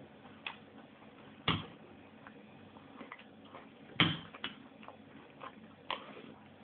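Scattered light clicks and knocks at uneven intervals, with two louder knocks about a second and a half in and about four seconds in.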